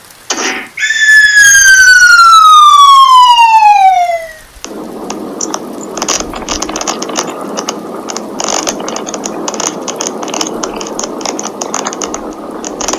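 Added sound effect: after two short blips, a loud whistle glides steadily down in pitch for about three and a half seconds. Then a busy rattling, clicking noise takes over.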